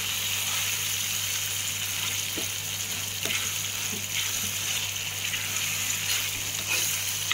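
Tamarind paste sizzling and bubbling steadily in hot oil in a kadai, with a steady low hum underneath.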